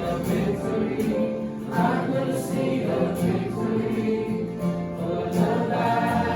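A group of voices singing a worship song together in chorus over instrumental backing, with long held notes.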